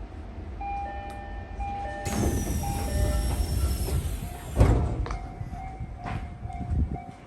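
Tokyo Metro 17000 series train at a station platform: a loud rush of air hiss with a high falling whistle, ending in a heavy thump about four and a half seconds in. Electronic chime tones sound before and after it.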